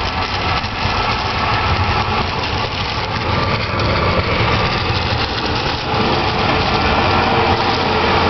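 Small street snowblower's engine running steadily.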